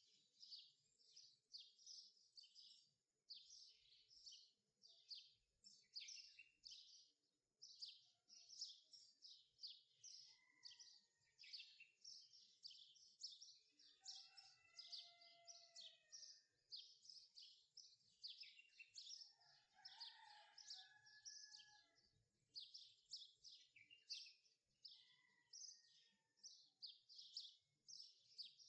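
Faint birdsong: a steady run of quick, high chirps, two or three a second, with a few lower warbled phrases about halfway through.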